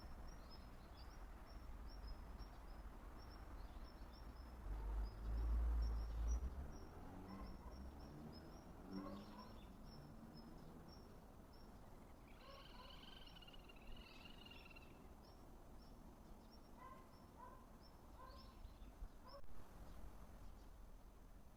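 Small wild birds calling: a long run of thin, high chirps repeated several times a second, with a louder warbling call about twelve seconds in and a few lower chips after. A brief low rumble about five seconds in is the loudest sound.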